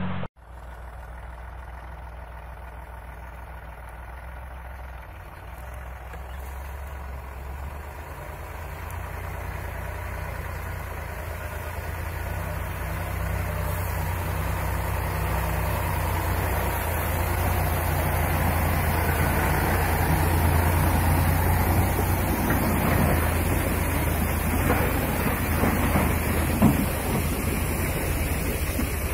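Heavy truck engine running under load, steadily growing louder, with a few knocks and rattles and one sharp bang near the end.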